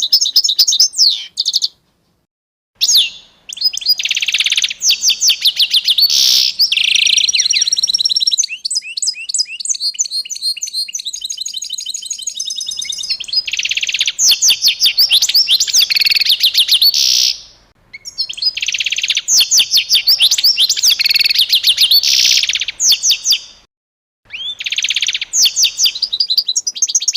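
A songbird singing long, fast phrases of high chirps and trills, broken by three short silences.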